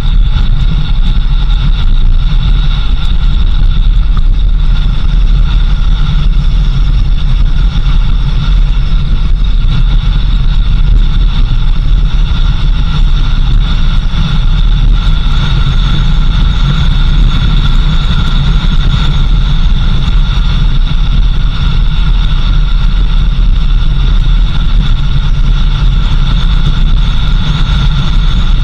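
A vehicle running steadily, loud and unbroken: a deep engine and road rumble with a constant high whine above it.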